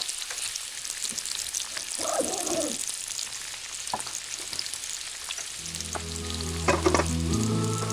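Food frying in hot oil, a steady crackling sizzle. A short voice-like call sounds about two seconds in, and background music with held notes comes in over it a little past halfway.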